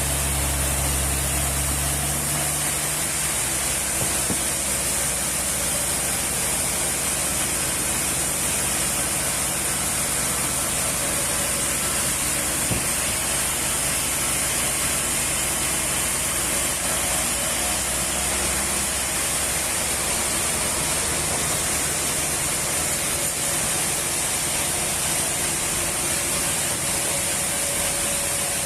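Steady workshop machine noise with a constant high hiss; a low hum drops away about two seconds in.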